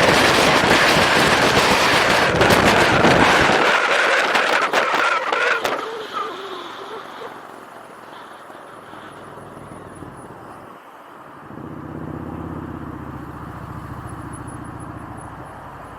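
Heavy wind buffeting on the microphone of a moving motorcycle, crackling and loud, fading out about five or six seconds in as the bike slows. After that a quieter engine hum, with a low droning engine note coming in a little past the middle.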